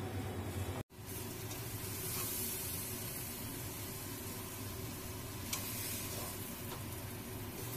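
Hot oil sizzling in a pan, cut off by a brief dropout about a second in; then mashed boiled potato sizzling in oil in a kadai as a spatula stirs and scrapes it, with a few light clicks.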